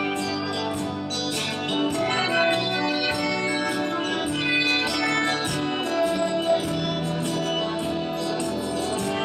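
A live band playing a song: sustained melodic instrument lines with light percussive accents.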